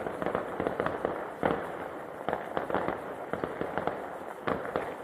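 Fireworks going off in a continuous, irregular string of sharp bangs and crackles.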